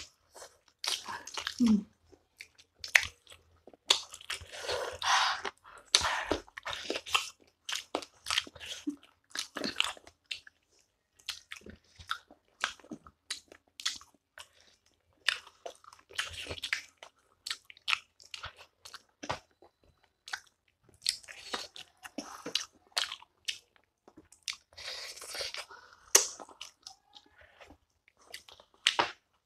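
Chewing, biting and sucking on spicy sauced chicken feet: irregular, short wet mouth sounds.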